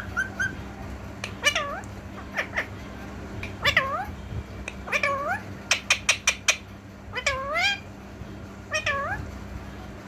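Green pet parrot giving a series of meow-like calls, each dipping and then rising in pitch, with a quick run of short, sharp squawks about six seconds in.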